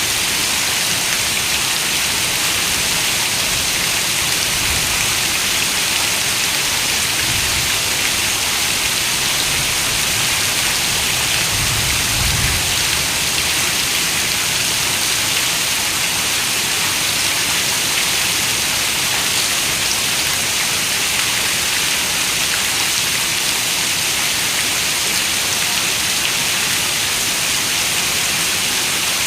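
Steady rain, an even hiss with no single drops standing out, with a brief low rumble about twelve seconds in.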